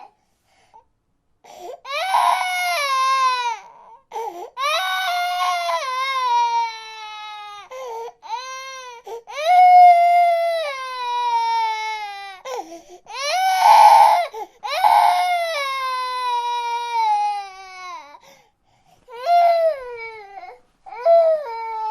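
A baby crying in long, drawn-out wails, each falling in pitch, broken by short pauses for breath.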